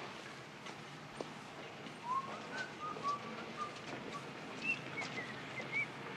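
A bird chirping a series of short, quick notes that start about two seconds in and climb higher in pitch toward the end, over steady background noise.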